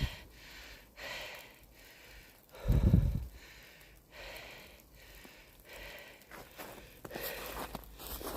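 A person walking through the woods: a run of footsteps with breathing close to the microphone, and one brief low thump on the microphone about three seconds in.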